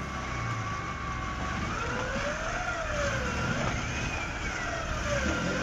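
Jeep Wrangler JKU Rubicon crawling up a rocky off-road trail, its engine revs rising and falling several times.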